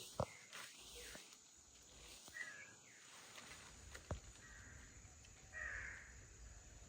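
Quiet outdoor background with a few faint, short bird calls and two sharp clicks or knocks, one just after the start and one about four seconds in.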